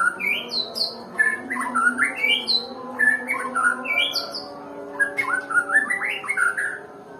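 White-rumped shama singing in about four quick phrases of rising, whistled notes with thin high notes above them; the song stops shortly before the end.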